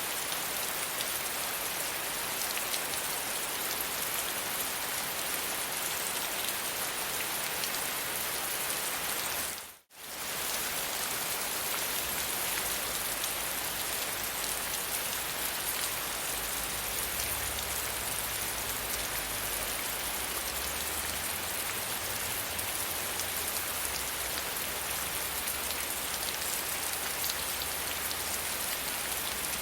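Steady rain falling, an even hiss of many drops. About ten seconds in it dips briefly to near silence and fades straight back.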